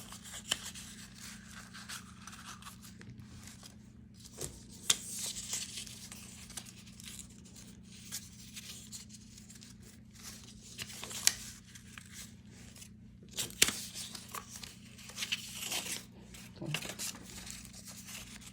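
Paper being handled and folded up by hand: irregular crinkles, rustles and sharp crackles.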